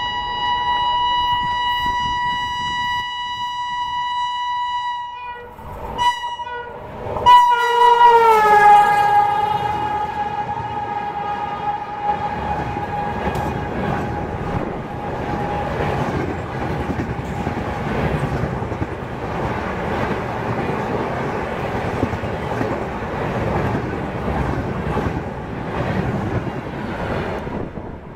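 Electric locomotive horn of a Rajdhani Express: a long blast, then short blasts, the last one dropping in pitch as the locomotive passes. Then the LHB coaches run past at speed, a steady rush of wheel and rail noise lasting about twenty seconds that fades near the end.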